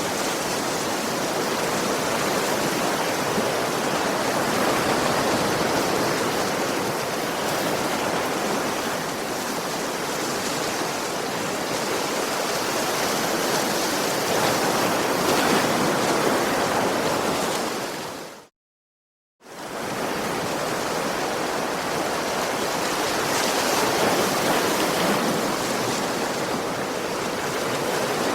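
Sea waves washing onto a beach: a continuous surf noise that swells and eases slowly. About two-thirds of the way through it fades to silence for about a second, then comes back.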